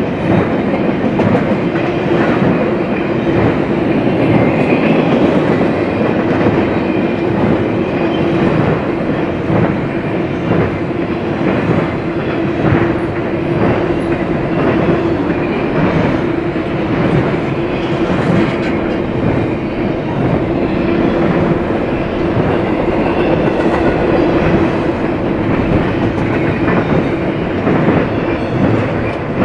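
Double-stack intermodal freight cars rolling past: steel wheels clacking over the rail joints in a continual run of clicks, over a loud steady rumble with a steady hum underneath.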